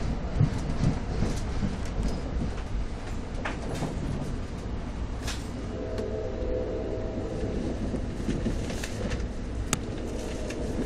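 NJ Transit commuter train heard from inside the coach while running at speed: a steady low rumble with scattered sharp clicks from the rails, and a brief hum near the middle.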